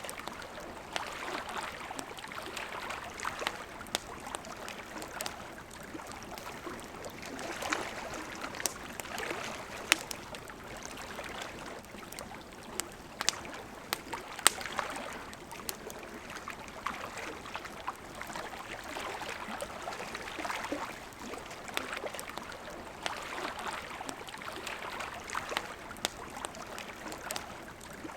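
River water babbling steadily, swelling and ebbing, with a campfire crackling over it in scattered sharp pops, two of them louder near the middle.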